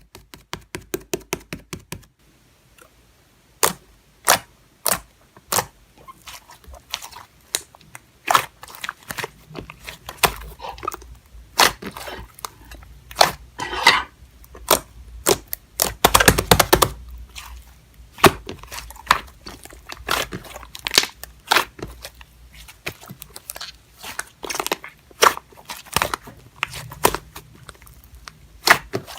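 Slime being squeezed and poked by hand, making sharp clicks, pops and crackles: a quick run of small clicks in the first two seconds, then irregular snaps, densest around the middle.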